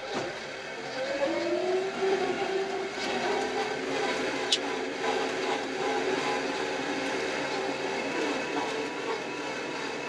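Kioti RX7320 tractor's diesel engine revving up about a second in, then running steadily at the higher speed while plowing snow. A single sharp click about four and a half seconds in.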